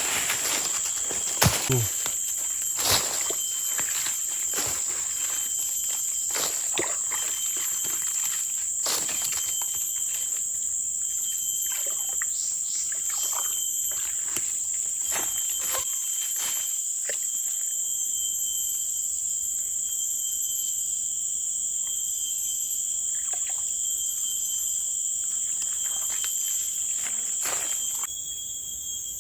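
Steady, high-pitched chorus of forest insects such as crickets, with irregular rustles, knocks and a little sloshing from someone digging through mud and vegetation at a swamp edge; the handling noises are busiest in the first half.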